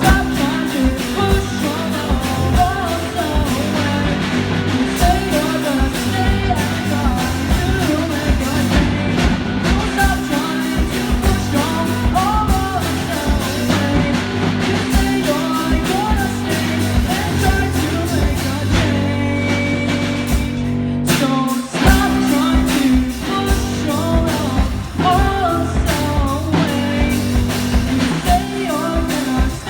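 A rock band playing live: a singer over guitar and drum kit, with a short break in the music about two-thirds of the way through.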